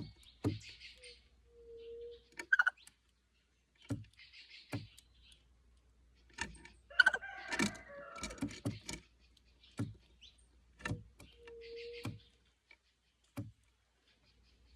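Plush-crested jays calling in a varied mix of chatter and pitched notes, loudest in a burst of calls midway, amid a series of sharp knocks and taps.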